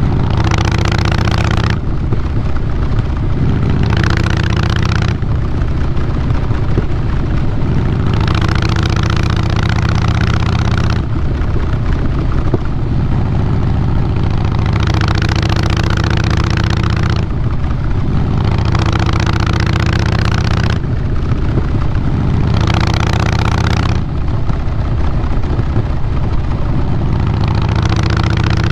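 Harley-Davidson Fat Boy Lo's Twin Cam 96B V-twin running through a Vance & Hines Big Radius 2-into-2 exhaust while the bike is ridden: a steady deep exhaust note, with a brighter, rougher layer coming in for a second or few every few seconds.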